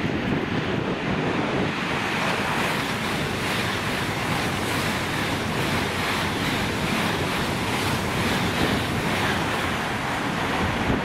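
Eurostar e320 (Class 374) high-speed train passing through the station without stopping: a loud, steady rush of wheel and air noise.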